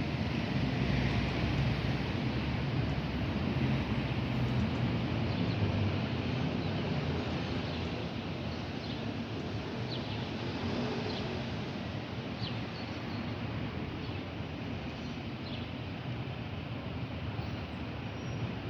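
Steady outdoor noise with a low rumble that eases off a little after the first half. Brief faint high chirps are scattered through the middle, from small birds.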